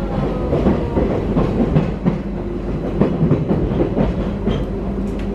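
Electric train running along the line, heard from inside the passenger car: a steady rumble and low hum, with frequent irregular clicks and knocks from the wheels on the rails.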